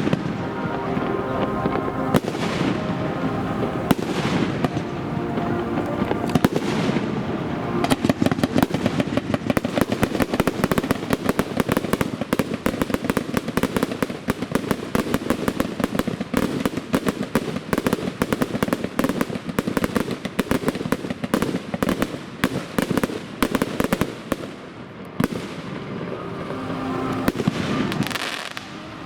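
Fireworks display: sharp bursts at first, then a long stretch of dense rapid crackling from about eight seconds in until near the end, with some music playing alongside.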